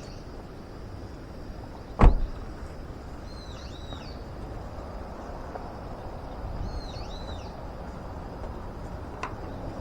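Outdoor ambience with a steady low rumble and one sharp knock about two seconds in, the loudest sound here. Twice a brief, high, chirping bird-like call is heard, and there is a faint tick near the end.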